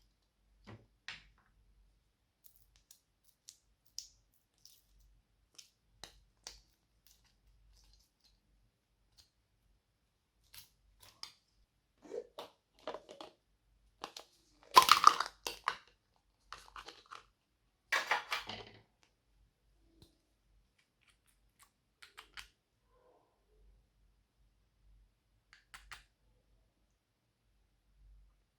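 Slime being squished and mixed by hand: scattered sticky clicks and pops, with two louder bursts of wet crackling about halfway through and a few seconds later.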